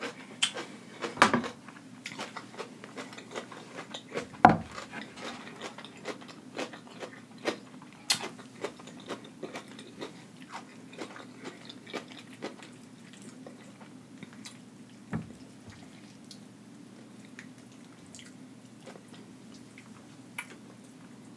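Close-miked chewing and biting, with irregular wet mouth clicks that are densest in the first half. A few louder knocks stand out, the loudest about four and a half seconds in.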